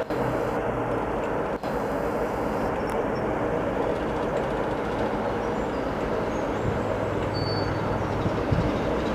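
Diesel locomotive-hauled train running through the station: a steady rumble of engine and wheels, with a low engine tone growing stronger in the second half.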